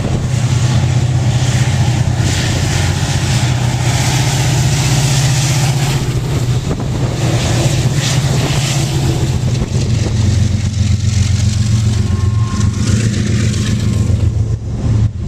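Freight train's diesel locomotive running close by: a loud, steady low engine drone that shifts slightly in pitch partway through, under a noisy rush from the passing train.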